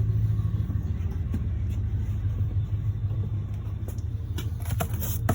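Ford 460 big-block V8 idling steadily with a low rumble, running again now that the distributor drive has been repaired. A few light clicks come near the end.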